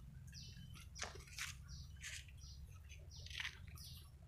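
Faint birdsong: repeated short high chirps that slide downward, over a low steady background hum.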